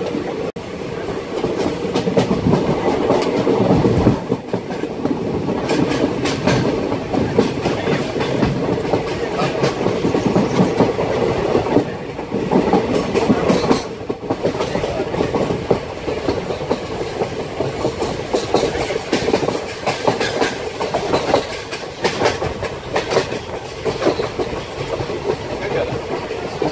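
Passenger train running along the track, heard from aboard a coach: a steady rumble of wheels on rails with repeated clickety-clack clicks as the wheels pass over rail joints.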